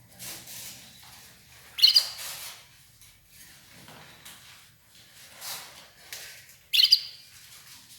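Red ivory canary giving short, sharp chirps; the two loudest come about two seconds in and about seven seconds in, with softer rustling sounds between them.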